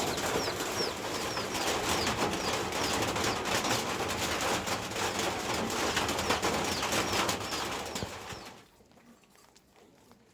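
Steady rain with a small bird chirping over it, about twice a second, in short high calls. Near the end everything cuts off abruptly, leaving only faint sound.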